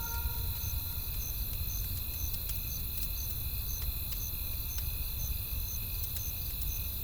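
Crickets chirping about twice a second over a wood campfire's low steady rumble, with scattered sharp crackles and pops from the burning logs.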